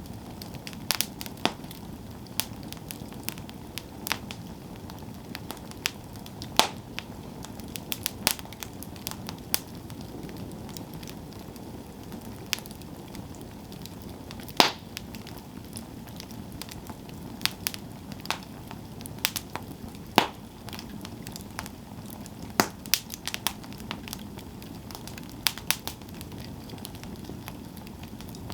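Wood campfire burning steadily, with irregular sharp crackles and pops over a low rushing of flame; a few louder pops stand out, the loudest about halfway through.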